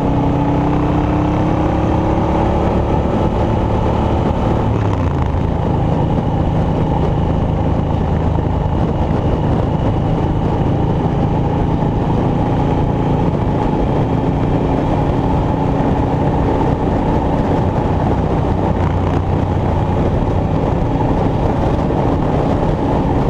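An engine running continuously with a loud, steady drone. Its pitch slides down over the first five seconds or so, then holds steady.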